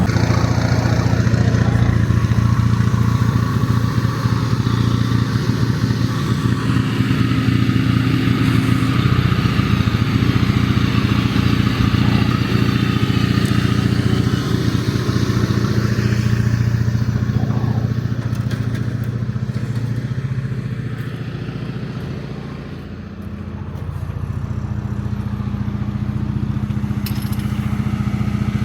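Motor vehicle engine running steadily with a low drone. It eases off about two-thirds of the way through, then builds again.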